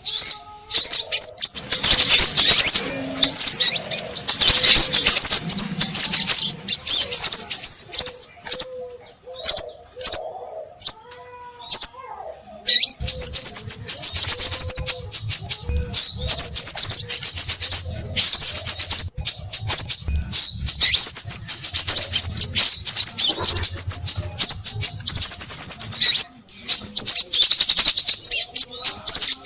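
Scarlet minivets calling noisily: a dense flurry of rapid, high chirps from several birds at once, thinning out for a few seconds in the middle before starting up again thickly. This is the agitated calling used as a lure to draw the birds in.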